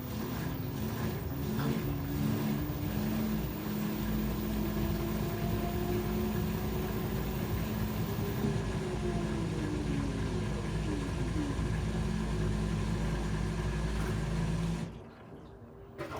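LG 13 kg washer-dryer running its spin cycle: a steady motor hum and drum noise, with tones that slide in pitch as the drum speed changes. It cuts off abruptly near the end.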